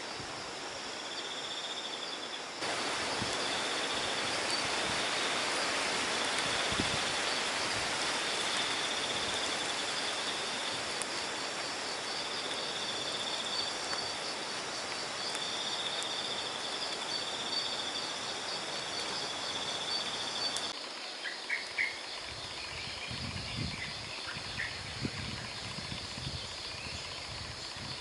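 Night insects chirping in steady, pulsing high trills, over an even rushing noise that steps up a few seconds in and cuts off abruptly near the 21-second mark. After that, short chirps and scattered low knocks come through.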